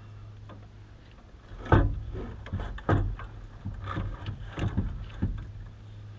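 A run of about seven clunks and knocks from parts or tools being handled while working on the car's wiring, the loudest about two seconds in, over a steady low hum.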